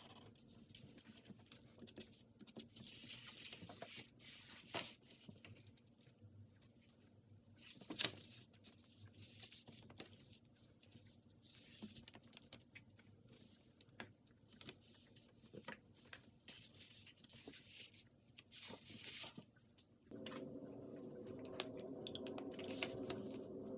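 Faint scratching of a pen drawing on paper, in short irregular strokes. A low steady hum comes in near the end.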